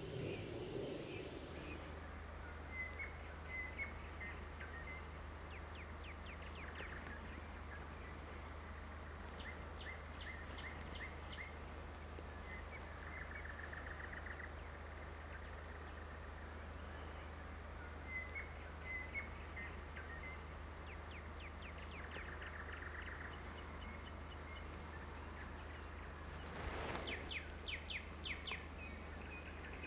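Songbirds chirping and giving fast trills in several short bouts, over a steady low hum. A brief rush of noise comes near the end.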